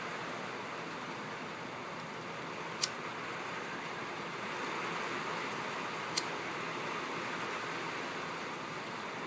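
Steady rain on a tin roof, an even hiss, with two sharp ticks about three seconds apart.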